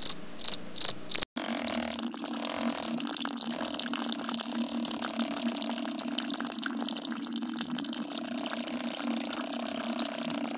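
Loud high-pitched chirping, about four chirps a second, that cuts off abruptly about a second in. Then water runs steadily from a thin hose into a small steel pot and a shallow pool, over a constant low hum.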